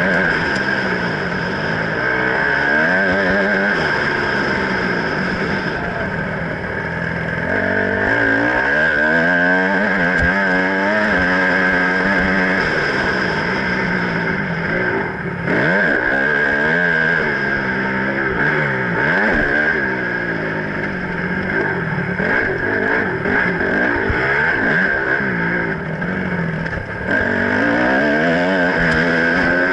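Motocross bike engine revving up and dropping off again and again as it is ridden round a dirt track, picked up close by an action camera.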